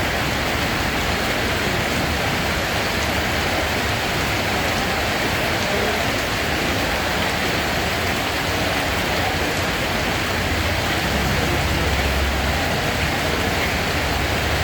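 Steady heavy rain, an even unbroken hiss with a low rumble underneath.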